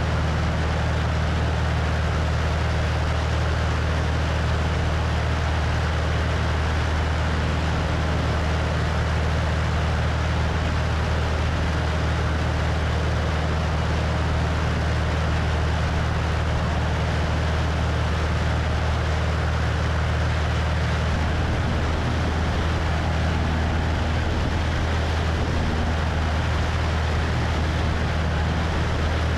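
Cessna 172's piston engine and propeller droning steadily in flight, heard from the wing with wind rushing over the microphone; the engine's tone shifts slightly about two-thirds of the way through.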